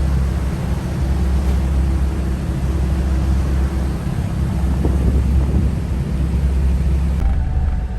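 Car ferry's engines giving a steady low rumble, with wind noise over it. About seven seconds in the sound changes abruptly and the hiss drops away.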